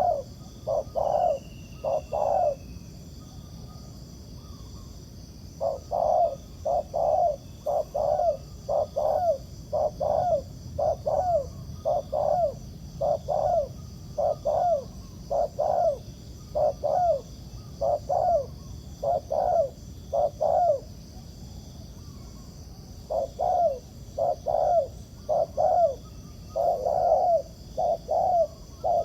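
Spotted dove cooing: series of short, deep coos at about two a second, broken by pauses of a few seconds.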